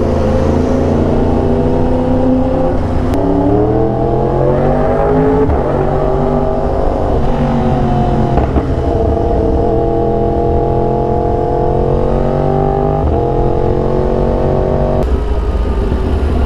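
Yamaha R1 sport motorcycle's inline-four engine heard from the rider's seat while riding. Its pitch climbs as it accelerates a few seconds in, drops sharply at a gear change, then holds steady at cruising revs. It steps down suddenly near the end as the bike slows.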